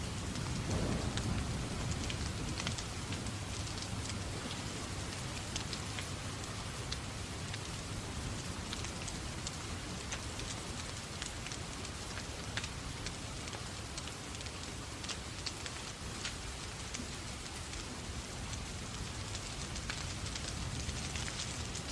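Steady rain mixed with a crackling fireplace fire, full of scattered sharp ticks and pops, with a brief low rumble about a second in.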